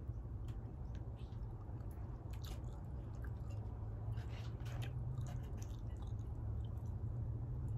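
Close-up mouth sounds of a person eating with her fingers: chewing, with small wet clicks and smacks, most of them in the middle stretch, over a steady low hum.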